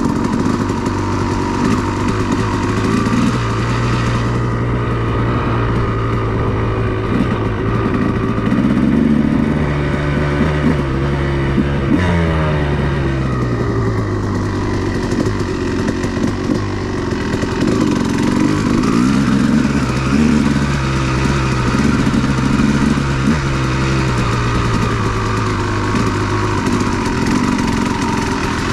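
2002 Honda CR250R's two-stroke single-cylinder engine running as the bike is ridden, the revs climbing and dropping a couple of times as the throttle is opened and closed.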